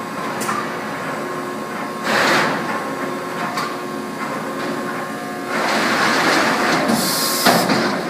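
Whitney 40-ton CNC punch/plasma machine running: a steady machine hum with a rushing surge about two seconds in and a longer, louder rush from about five and a half seconds on.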